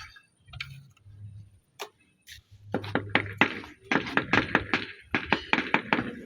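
Rapid, regular series of sharp knocks or taps, about four or five a second, starting about two and a half seconds in after a quieter stretch.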